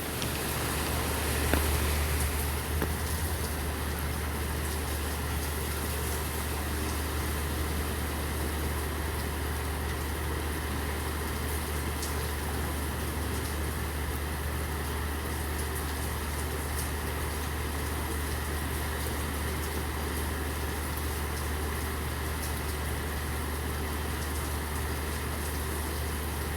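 Steady rain falling with occasional sharp drips, over the low, steady hum of an idling delivery truck engine that swells slightly about two seconds in.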